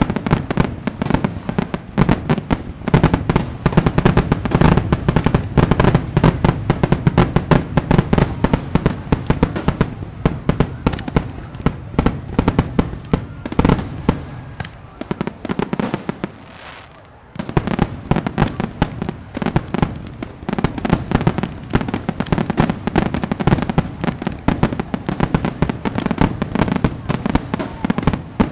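Fireworks display: a dense, rapid run of bangs and crackles. It fades away about fifteen seconds in, leaves a brief lull, and starts again abruptly.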